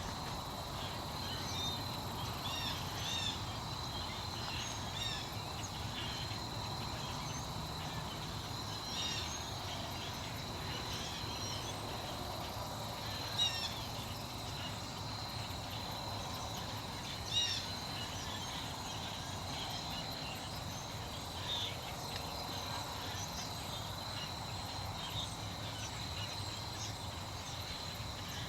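Outdoor nature ambience: a steady high insect trill with scattered short bird chirps over it, and a couple of slightly louder calls about halfway through.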